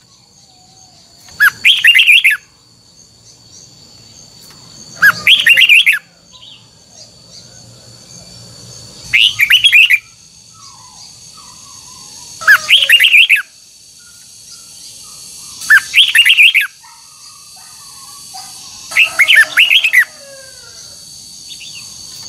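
Red-whiskered bulbul singing: six short, loud, warbling phrases, one about every three to four seconds, with fainter chirps between them. A faint steady high-pitched hum runs underneath.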